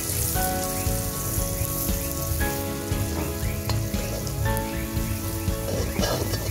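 Onions and curry spices sizzling as they fry in oil in a two-handled iron wok, stirred with a long spoon, with a few scraping ticks. Background music plays over it, sustained notes changing about once a second.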